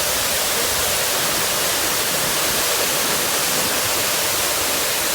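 Waterfall rushing, a loud, steady roar of heavy, fast-falling water.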